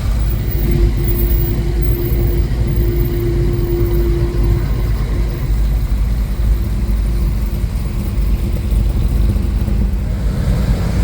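Car engines running with a steady low rumble, joined for the first few seconds by a held steady tone.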